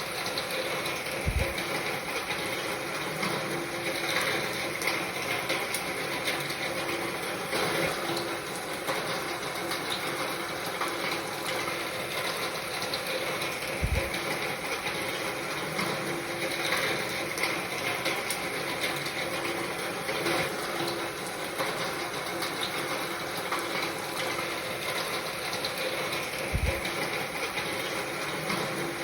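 Steady rain pattering, a dense spread of small drop ticks, with a brief low thump about every 12 to 13 seconds.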